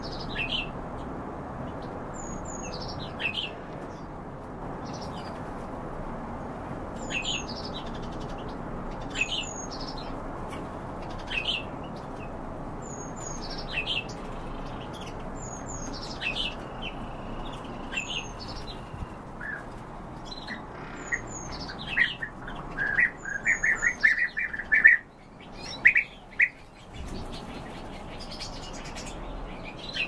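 Caged birds chirping: a short, high call that slides downward, repeated about every two seconds, then a quick run of louder chirps near the end, over a steady background hiss.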